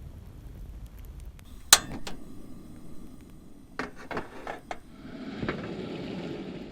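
Hard objects clinking and knocking: one sharp clink about two seconds in, the loudest sound, then a handful of lighter knocks, followed by a soft rushing noise near the end.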